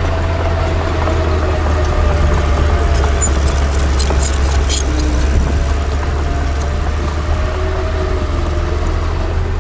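Heavy diesel engine of earthmoving machinery running steadily with a deep low hum. A few sharp metallic clicks come through about three to five seconds in.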